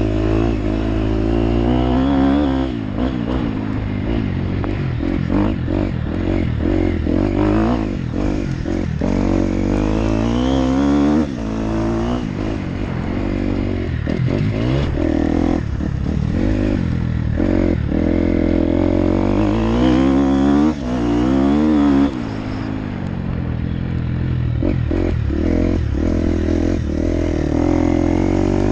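Motocross bike engine revving up and falling back over and over as it is ridden, with frequent short knocks and clatter from the bike.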